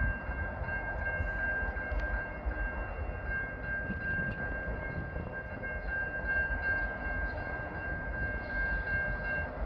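A train approaching a grade crossing: a steady high-pitched warning tone held throughout, stopping near the end, over a low rumble.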